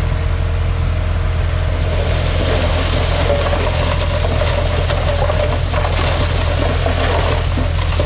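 Heavy diesel earthmoving machinery running steadily, with a steady mid-pitched tone over a deep engine drone. From about two seconds in, an irregular clattering is added.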